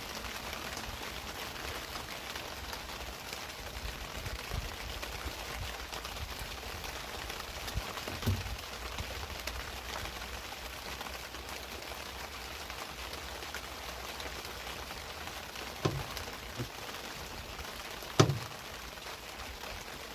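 Heavy rain falling steadily, a constant hiss. A few knocks stand out over it, the loudest near the end.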